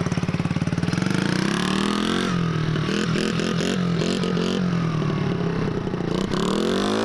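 Small dirt bike engine revving as the rider pulls away, its pitch climbing, dropping back and wavering with the throttle, then rising again near the end.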